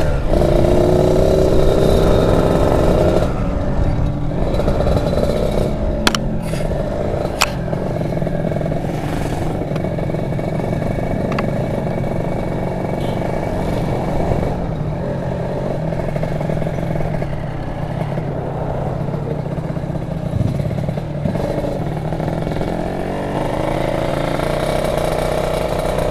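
Two-stroke motorcycle engine running under way, holding at steady revs with small rises and falls, with two sharp clicks about six and seven seconds in.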